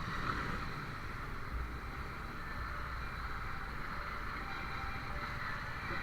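Steady noise of passing vehicle traffic at a railway level crossing, with a low rumble and no distinct single event.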